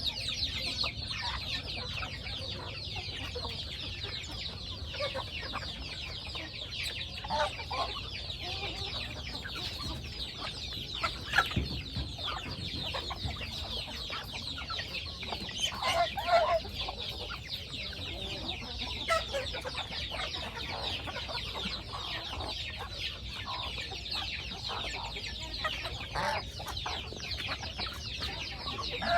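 Chickens clucking, with a constant dense, high-pitched chirping of many birds and louder lower calls standing out now and then.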